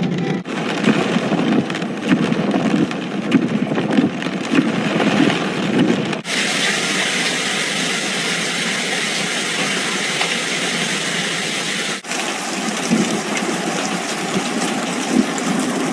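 Hail and rain beating on a car while its engine runs. The sound changes abruptly twice, at cuts between clips: about six seconds in it turns into a dense, even hiss, and it shifts back again about twelve seconds in.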